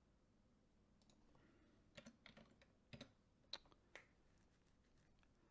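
Near silence broken by about six faint key clicks on a computer keyboard, spread over two to four seconds in.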